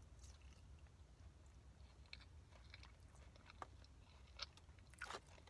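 Faint chewing of chicken bites: scattered soft mouth clicks and smacks, the loudest ones about four and five seconds in, over a low steady hum.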